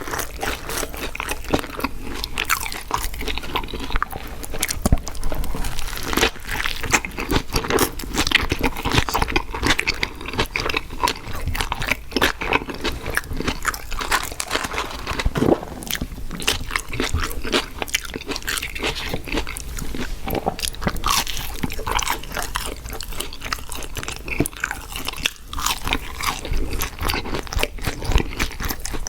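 Close-miked eating of fast food: continuous crunching and chewing, with many quick crisp bites and wet mouth sounds.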